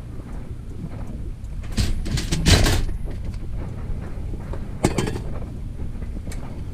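Clattering and knocking as a glider chair is handled and moved: a burst of knocks about two seconds in, the loudest part, and one sharp knock near five seconds, over a steady low rumble.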